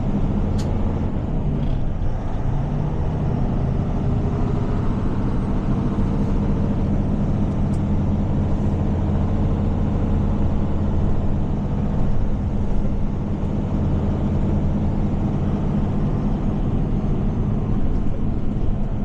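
Heavy tow truck's diesel engine running steadily with a low hum, heard from inside the cab while it tows a truck.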